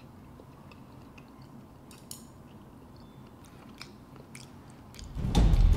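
A mouthful of salmon sashimi being chewed, heard as quiet scattered mouth clicks and smacks. Loud music comes in near the end.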